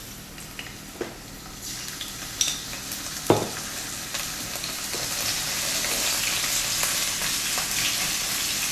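Garlic sizzling in hot oil in a pan while it is stirred, the utensil knocking against the pan a few times, loudest about three seconds in. The sizzle grows louder and fuller from about four seconds in.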